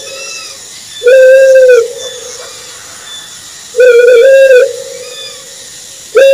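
Owl hooting: long, level hoots of under a second each, one about a second in, one near four seconds (wavering at its start) and another starting at the very end. Each is followed by fainter echoing repeats, over a steady high hiss.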